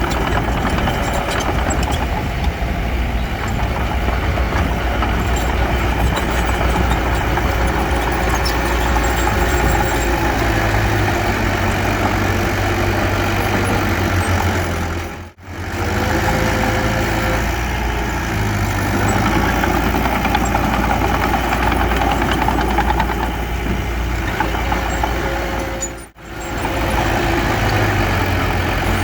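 Heavy diesel construction machinery running steadily with a deep engine drone, cut off abruptly for a split second twice, about halfway through and near the end.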